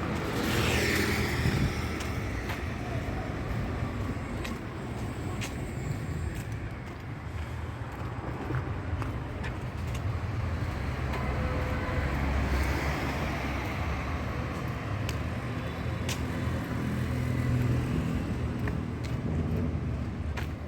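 Road traffic running close by: a steady low rumble of vehicles, with one vehicle passing near the start and another about twelve seconds in.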